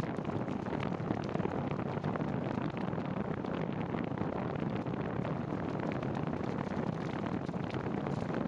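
Steady wind noise rushing over the microphone of a rider on a bicycle in the rain, with faint scattered ticks through it.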